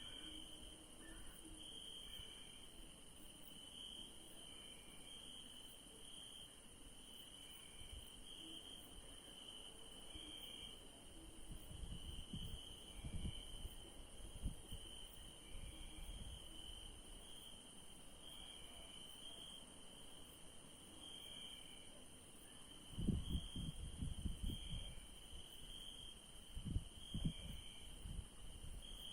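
Crickets chirping steadily in a night chorus, with a higher steady insect trill above them and a fainter short call repeating about every two seconds. Low rumbles come and go, strongest near the end.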